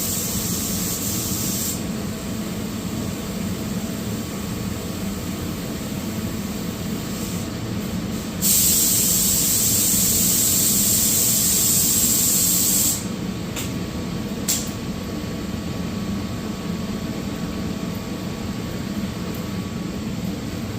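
Air spray gun hissing as it lays epoxy primer: one spray pass at the start, a longer pass of about four seconds near the middle, then two quick trigger blips. A steady low hum runs underneath.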